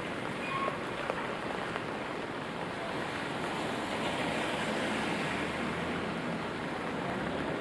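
Steady rain falling, with the hiss of car tyres on wet road swelling about four seconds in and a low engine hum coming in near the end.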